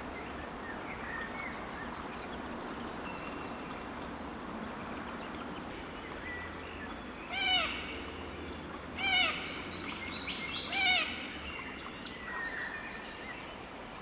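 Bush ambience with faint, scattered birdsong. In the second half, a nearby bird gives three loud, rich arched call notes, each about a second and a half to two seconds after the last.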